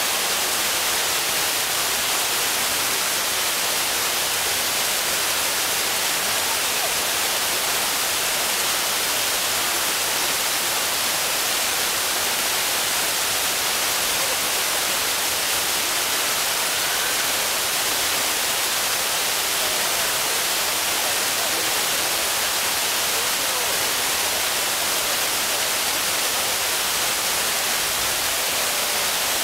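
Waterfall: a steady rush of falling water, an even hiss that sits mostly in the high end and does not change.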